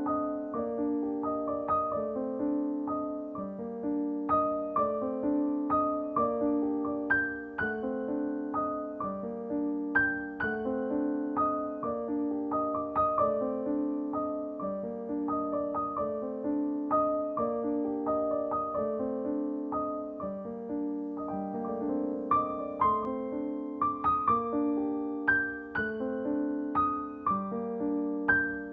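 Background piano music: a gentle, evenly paced piano line with notes struck about every half second.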